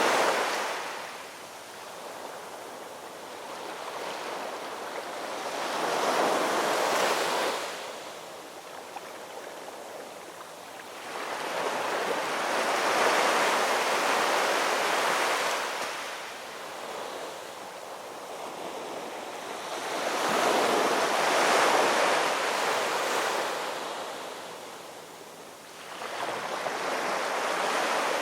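Ocean waves surging in and ebbing away, one slow swell of rushing water about every seven seconds.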